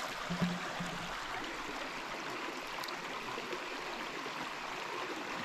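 Creek water running steadily, with a short low tone about half a second in.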